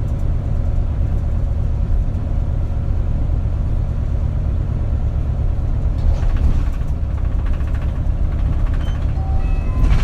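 Isuzu Erga city bus (KL-LV280L1) engine and drivetrain running while the bus drives, heard from inside the passenger cabin as a steady low rumble.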